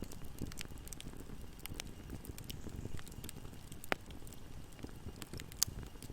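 Wood fire burning in a fireplace: a steady low rumble of the flames with scattered sharp crackles and pops, two louder pops about four and five and a half seconds in.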